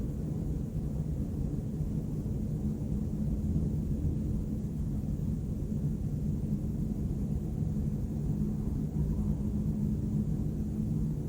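Steady low rumble of distant city traffic, with a constant low hum underneath and no distinct events.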